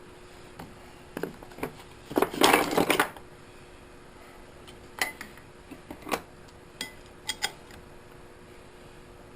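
Metal tools and parts clinking and clattering: a few light clinks, a louder rattling clatter about two seconds in that lasts about a second, then scattered single clinks.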